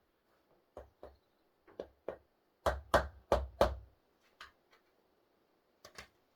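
A series of irregular knocks and clunks on hard surfaces, as in handling and fitting a freezer. Single knocks come first, then four louder knocks in quick succession about halfway, and a couple more near the end.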